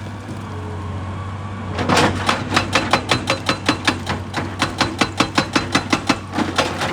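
Excavator's diesel engine running steadily; about two seconds in, a hydraulic breaker starts hammering rock, a fast, even series of sharp blows, about five or six a second.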